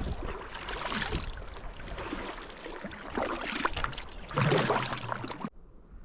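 Water splashing and rushing around a kayak as it is paddled through shallow moving water, in uneven surges, cutting off suddenly near the end.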